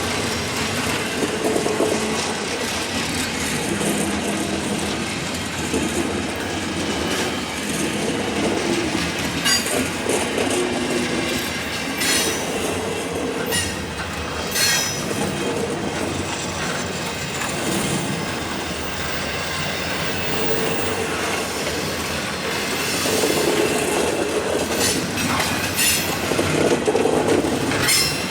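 Freight train cars rolling past at slow speed on a grade, steel wheels clicking over rail joints and squealing on the rail.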